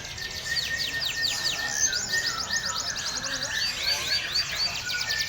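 Domestic canary singing: fast trills of repeated, downward-sweeping high notes, switching to a new trill pattern every second or so, with one slower run of hooked notes near the end.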